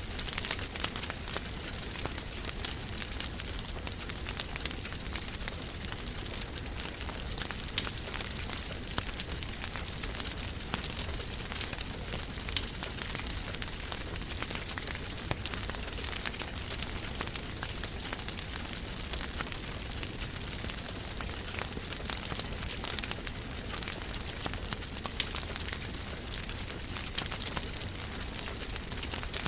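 Wood fire burning in a fireplace: steady crackling and hiss with many small snaps, a few sharper pops standing out about 8, 12 and 25 seconds in.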